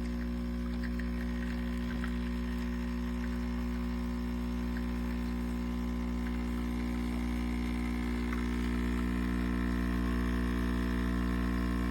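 Geek Chef 20-bar espresso machine's pump running with a steady buzzing hum.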